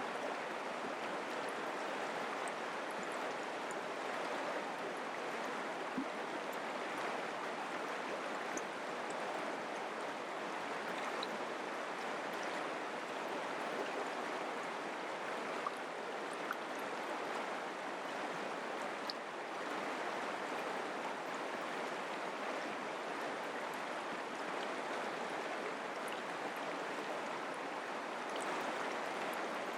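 Mountain creek water running steadily over rocks, an even rushing flow with faint small splashes.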